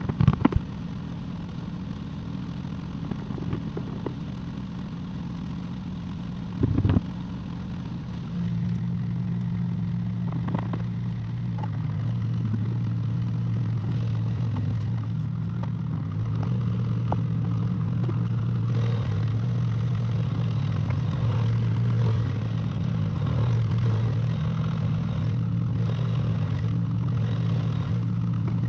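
Excavator's diesel engine running steadily, growing louder about 8 seconds in as it comes under more load. A few knocks or clatter sound just after the start and again around 7 seconds.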